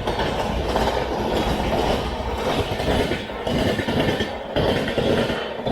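Train running along the track, heard from inside a non-AC double-decker passenger coach: a steady rumble and rattle of wheels on rails, with a couple of brief dips in loudness.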